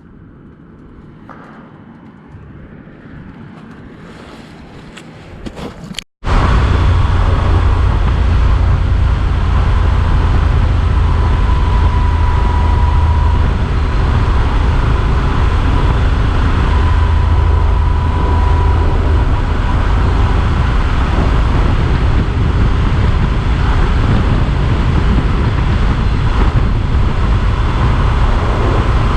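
A quieter stretch that slowly swells, then, after a sudden cut about six seconds in, the loud steady riding noise of a Yamaha Super Ténéré XT1200Z at speed: wind rush over the camera with the engine's low drone underneath.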